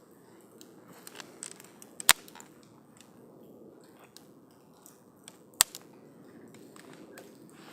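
Wood campfire burning, crackling with small snaps over a soft steady rush of flame, and two loud sharp pops about three and a half seconds apart.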